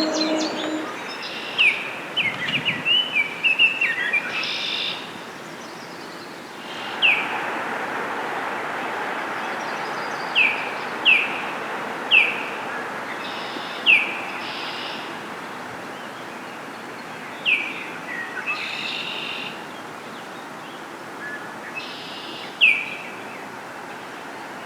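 Wild birds calling: one bird repeats a short, sharp, down-slurred note every one to three seconds, among other brief chirps. A steady background hiss runs underneath.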